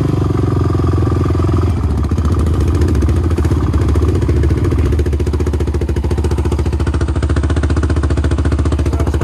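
Dirt bike engine running at a steady idle, with a fast, even pulse.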